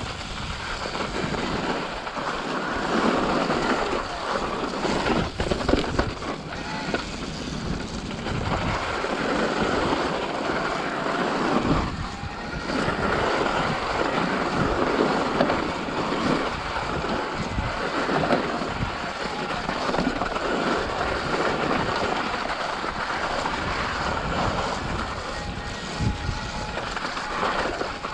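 Wind rushing over the microphone of a riding bicycle, with a steady rush of tyre noise from the trail and occasional knocks from bumps.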